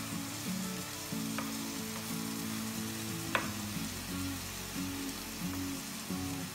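Spinach and peppers sizzling as they fry in oil and butter in a non-stick pan, stirred with a wooden spoon. Two sharp clicks, about a second and a half and three seconds in, as the spoon knocks the pan.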